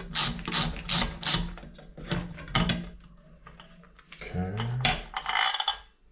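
A ratcheting hand tool clicking in quick, even strokes, about two and a half a second. The run stops about a second and a half in, and two more single strokes follow.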